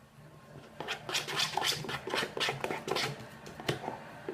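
Glue-and-Tide slime being stirred in a bowl: a run of irregular wet scraping strokes starting about a second in.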